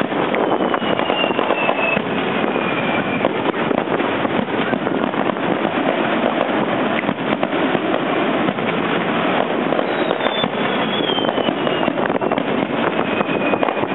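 Fireworks display: a dense, continuous crackling of bursting shells. A thin falling whistle is heard twice, once at the start and again about ten seconds in.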